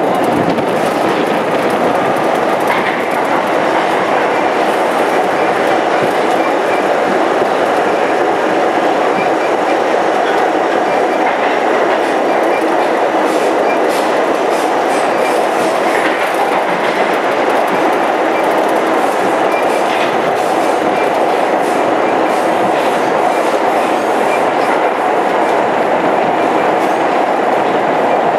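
R32 New York City subway car running at speed, heard from inside at the front window: a loud, steady roar of wheels and motors on the rails with scattered light clicks from the track.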